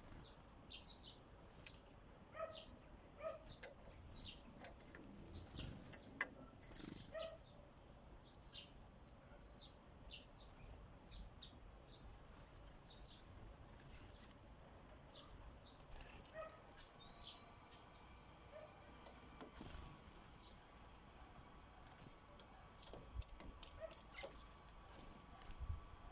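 Faint chirping of small songbirds: short high notes in little clusters, with scattered light taps and clicks among them.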